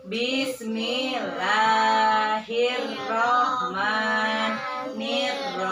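A voice chanting a Quranic recitation, drawing the Arabic out in long, wavering held notes with short breaths between phrases.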